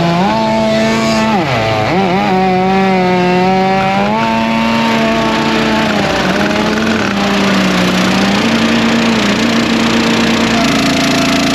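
Small gasoline engine running loud under changing load: its pitch sags hard about a second and a half in, recovers, and then holds fairly steady with smaller dips.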